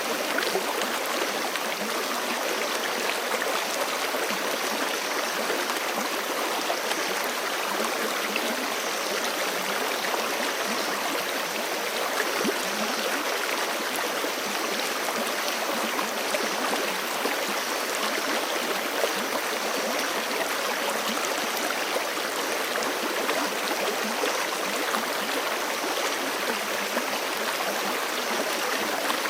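Forest creek flowing over rocks: a steady, dense rush of water with fine splashing and gurgling and no pauses.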